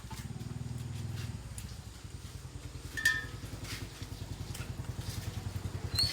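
Win 110 motorbike's single-cylinder engine running at a steady idle with an even rapid beat, a little faster and louder during the first second or so.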